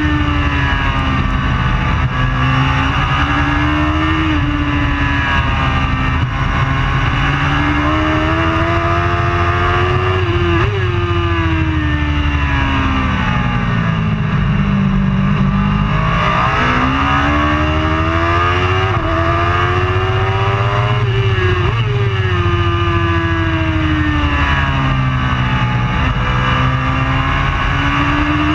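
Racing superbike engine running hard and continuously. The revs climb and drop abruptly several times with gear changes, fall away slowly around the middle as the bike slows, then pull up again.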